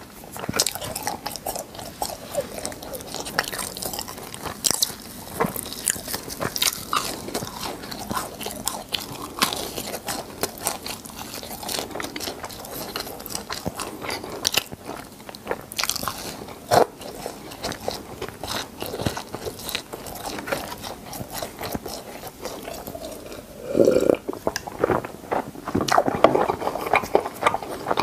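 Close-miked chewing of crispy fried cheese balls: a steady run of irregular crisp crunches and crackles, getting louder and fuller near the end.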